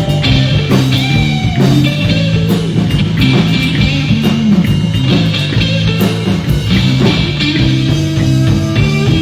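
Live rock band playing an instrumental passage, with electric guitar, bass guitar and drum kit.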